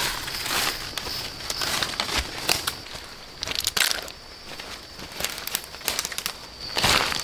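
Irregular crinkling and crackling, full of small clicks, louder near the end, over a faint steady high-pitched tone.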